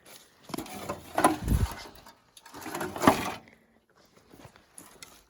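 Footsteps through brush and forest undergrowth: two heavy, rustling steps about two seconds apart, then lighter scuffs and rustles.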